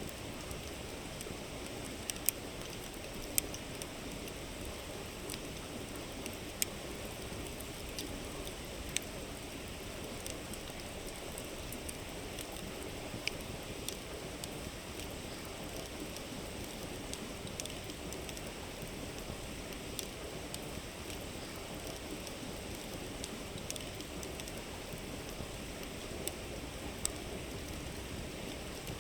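River flowing steadily, with a wood campfire crackling close by: irregular sharp pops, a few of them louder, over the even rush of the water.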